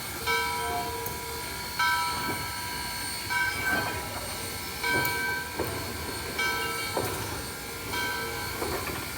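A train's bell ringing slowly, struck about every one and a half seconds, each ring fading before the next, with a few sharp clicks between the rings.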